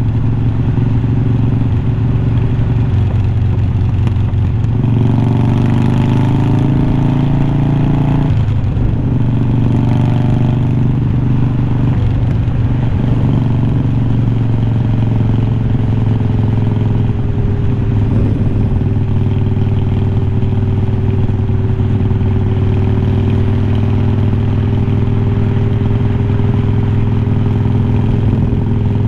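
2020 Harley-Davidson Iron 1200's air-cooled V-twin running loud through unbranded glass-pack-style slip-on mufflers while riding. The revs climb from about five seconds in and drop off sharply about eight seconds in, rise briefly once more, then hold steady.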